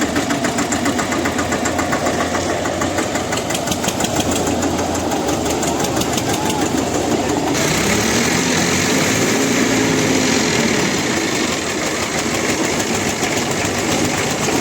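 Tractor diesel engines running hard under load in a tug-of-war pull, with a rapid, even firing beat. About eight seconds in, an engine's pitch rises and then falls back over a few seconds.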